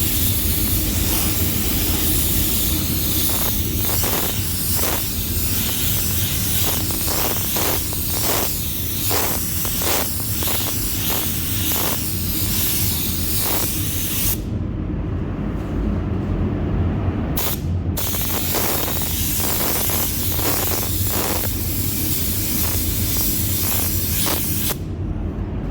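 Mini touch-up spray gun misting white base coat onto a helmet: a loud hiss of air and paint in short passes, cut by many brief trigger releases. It pauses for a few seconds about fifteen seconds in and again near the end. A steady low hum runs underneath.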